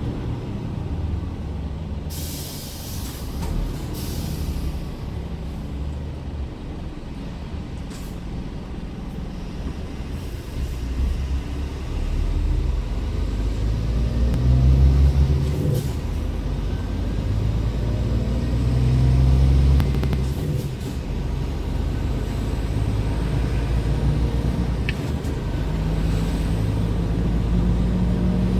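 Scania R410 truck's diesel engine running as the tractor-trailer drives, its drone rising and falling in pitch and getting louder in the middle under power. About two seconds in comes a hiss of air from the truck's air brakes.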